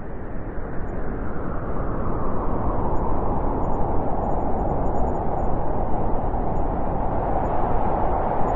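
Steady wind blowing, a low rushing noise that fades in over the first couple of seconds and then holds even.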